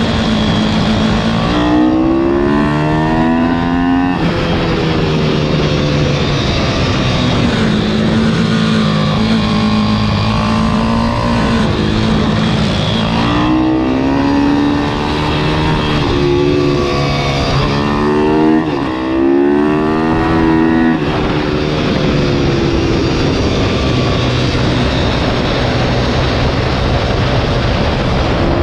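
Pit bike's IMR YX160 single-cylinder engine running hard. Its pitch climbs again and again, breaking off and climbing once more, with steadier stretches in between.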